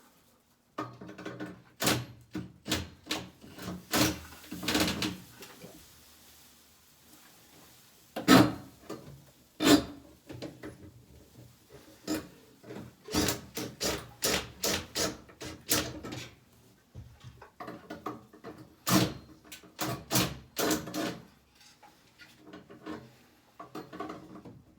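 Irregular clusters of sharp knocks, clunks and rubbing from tools and parts being handled during a ceiling air conditioner installation, with short quiet gaps between the clusters.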